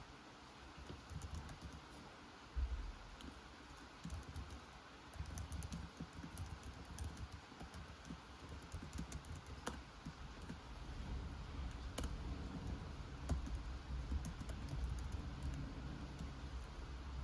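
Computer keyboard typing in uneven bursts of key clicks over a steady hiss of rain, with a low rumble of thunder growing louder in the second half.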